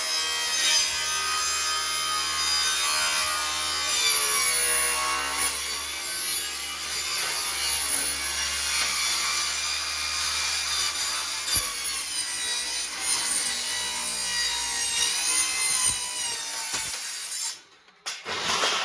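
Power saw making one long continuous cut, a ringing whine with a slowly wavering pitch that stops abruptly, followed by a short second burst near the end.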